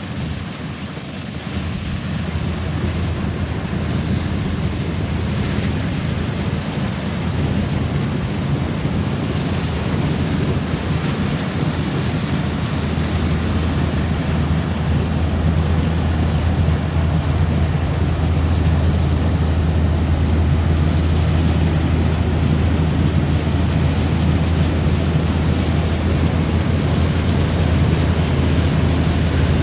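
Combine harvester running steadily at work: a deep engine drone with a noisy rush above it, growing gradually louder.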